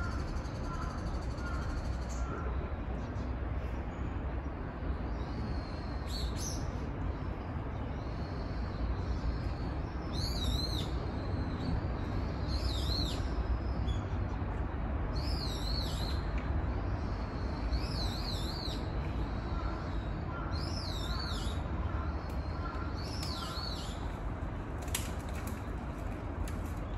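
A bird calling over and over with a short, high, wavering phrase, about every two to three seconds from about ten seconds in, over a steady low rumble. A faint run of short pips comes near the start and again a little past twenty seconds.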